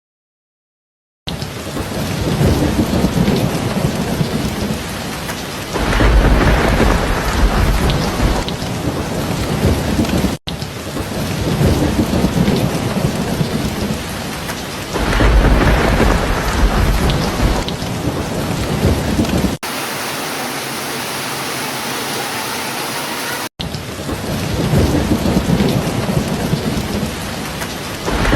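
After about a second of silence, heavy rain falls steadily. Rolls of thunder swell in three times: about six seconds in, about midway, and near the end.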